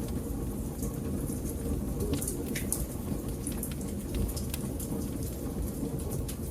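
Wood fire crackling in a fireplace: a steady low rumble with frequent sharp pops and snaps, several a second.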